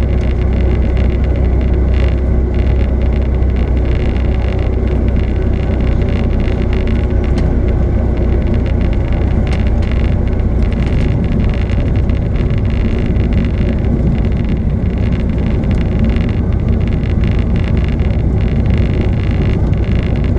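Steady, loud engine drone with a heavy low rumble and a few steady tones, unchanging throughout.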